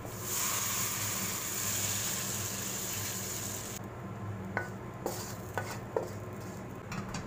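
Bean sprouts sizzling in a hot wok while being stirred with a wooden spatula; the sizzle stops abruptly near four seconds in. After it come about five sharp knocks of the wooden spatula on the wok as the stir-fry is scooped out onto a plate.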